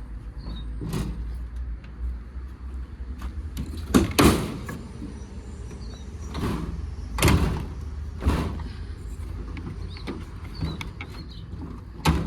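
A steady low vehicle rumble with a series of sharp door-like bangs and knocks. The loudest is a close pair about a third of the way in, with several more later and one near the end.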